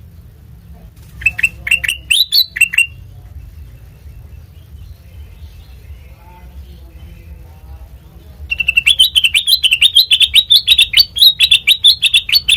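Kutilang mas (a bulbul) singing in rapid runs of sharp, chirpy notes: a short phrase of about seven notes, a pause, then a long fast string of notes near the end. A low background rumble runs underneath.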